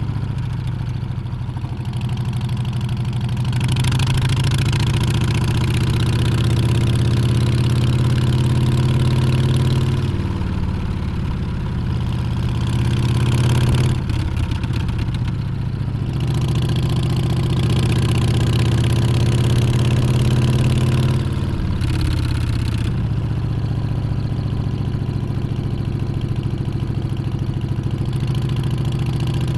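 Harley-Davidson Street Bob 114's V-twin engine under way, its pitch climbing slowly as it pulls, then dropping back sharply about ten seconds in, again around fourteen seconds and again near twenty-two seconds, as at gear changes or a roll-off of the throttle. A rush of wind noise rises over the engine in the faster stretches.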